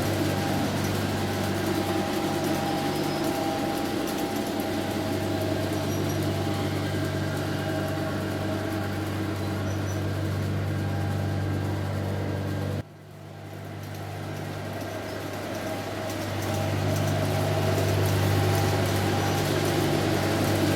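Model diesel locomotives running a long garden-railway train: a steady motor hum with the rolling of many cars on the track. The sound cuts off suddenly about 13 seconds in, then builds back up to the same level.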